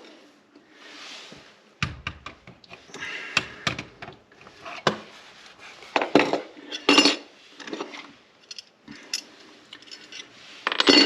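Metal storm-door closer hardware being handled: irregular clinks, clanks and light knocks of small metal parts, with a few short rustles in between.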